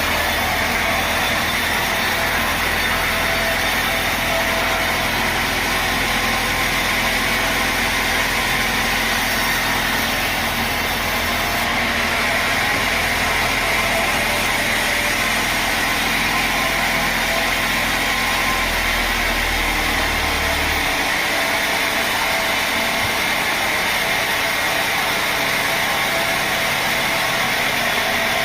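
Sawmill machinery running steadily with a constant, engine-like drone and hiss, no cut going on; a low hum drops out about two-thirds of the way through.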